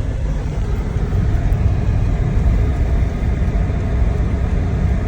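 Road and engine noise inside the cabin of a moving car: a steady low rumble.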